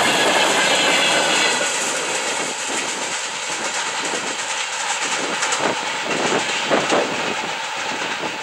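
Freight train of rail tank cars rolling past, wheels clattering over the rails. About two seconds in the noise drops as the last wagons go by, leaving a fainter rumble of the receding train with a few scattered clicks.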